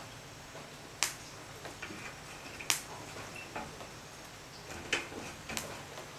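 Wood fire crackling: a handful of sharp pops and snaps at irregular intervals, the loudest about a second in, near the middle and twice near the end, over a steady low hiss.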